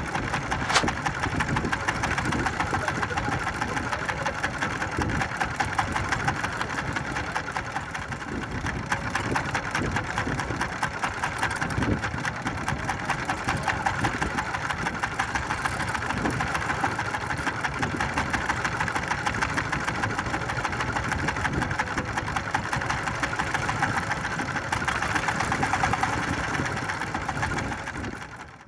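Small fishing boat's engine running steadily with a rapid, even knocking beat; it fades out near the end.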